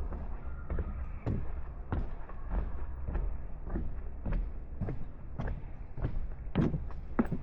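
Footsteps of a person walking at a steady pace, one step about every 0.6 seconds, over a steady low rumble.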